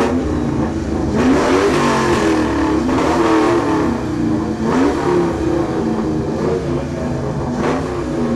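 2002 Ford Mustang GT's V8 being revved again and again through its exhaust, the pitch climbing and falling with each rev.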